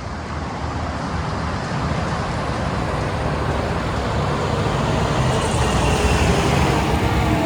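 Heavy truck engine running with road noise, fading in and growing steadily louder.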